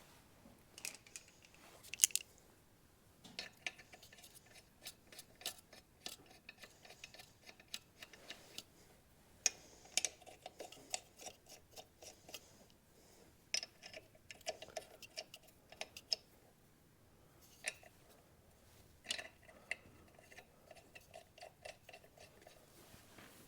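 Faint, irregular small clicks and taps of hand tools on metal, coming in scattered runs.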